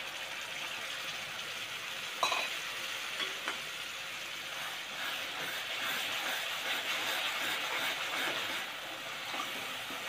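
Onion-tomato masala with red chili paste sizzling in oil in a wok while a spoon stirs and scrapes through it, the sizzling and stirring louder in the middle. A sharp metal clink of the spoon against the pan about two seconds in, with a couple of lighter knocks just after.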